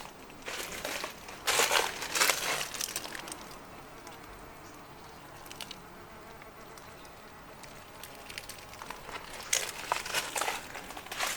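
Footsteps crunching on a dry trail, in two runs of steps about two a second: one just after the start and another near the end, with a quiet outdoor background between them.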